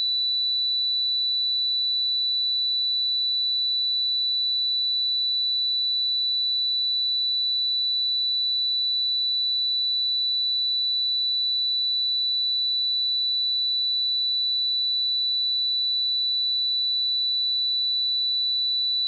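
A pure 3966 Hz sine-wave test tone: one steady high-pitched whistle-like tone, unchanging in pitch and loudness.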